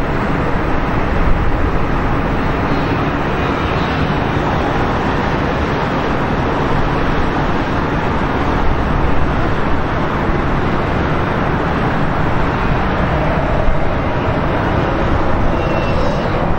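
Jet airliner engines heard as a steady, even noise with no rise or fall in pitch, starting abruptly at the beginning.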